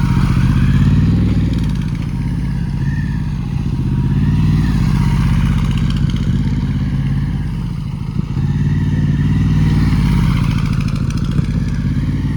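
A superbike's engine running and being ridden, its sound swelling and easing several times, loudest about a second in and again around ten seconds.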